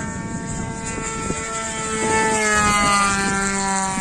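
DLE 20cc single-cylinder two-stroke gas engine of an RC warbird model in flight, growing louder as the plane passes and then dropping in pitch as it moves away. Low wind rumble on the microphone underneath.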